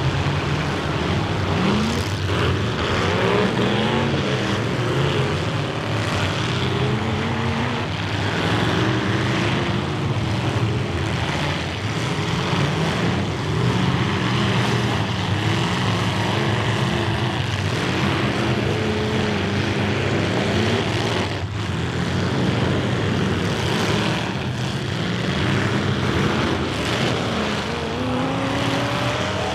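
Engines of several full-size demolition derby cars running and revving together, their pitch repeatedly rising and falling as the drivers accelerate and back off.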